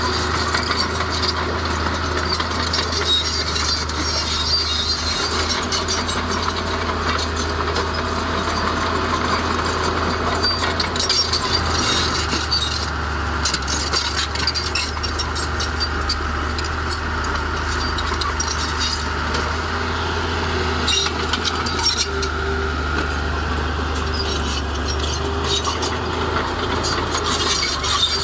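Heavy diesel earthmoving machinery running steadily, with scattered clanks and rattles over a constant low engine drone.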